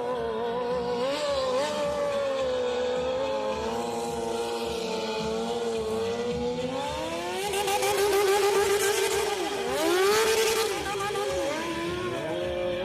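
Motor vehicle engines held at high revs, several running at once, with sharp revs rising and falling in pitch from about halfway through.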